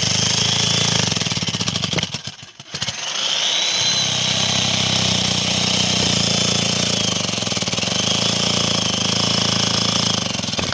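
A small engine running hard, close by, with a rapid steady firing pulse. It drops away briefly about two seconds in, then picks up again with a slight rise in pitch.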